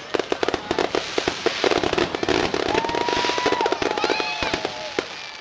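Fireworks finale: a dense, rapid barrage of bangs and crackling. A long whistle glides about halfway through, followed by short whistling tones.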